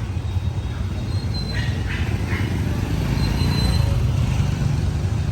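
Low, steady rumble of a train running on the Vietnamese railway, with a few short higher-pitched sounds about one and a half to two and a half seconds in.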